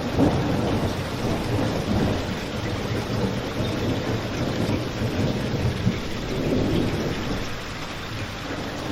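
Steady heavy rain, with a low rumble underneath that swells and fades a few times, like distant thunder.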